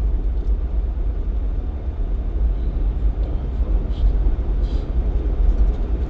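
Jeep Cherokee XJ driving on a snowy highway: a steady, deep rumble of road and engine noise, with a few faint clicks.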